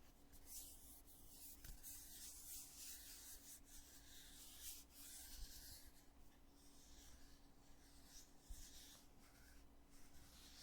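Quiet scratchy rubbing as the plastic lid of a foundation container is handled and worked by the fingers, in two long stretches with a short break about six seconds in.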